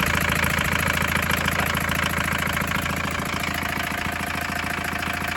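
A 1981 Isuzu Pup's 2.2-litre C223 diesel engine idling steadily with an even diesel clatter, cold and only just caught after a long, hard cold start. It drops a little in loudness about three seconds in.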